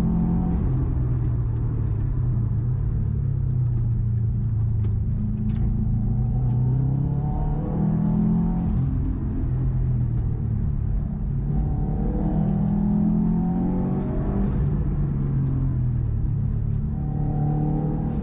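Subaru Impreza GC8 Spec C's turbocharged flat-four engine working hard on track, its note rising several times as it accelerates and falling away between pulls as the car brakes for corners.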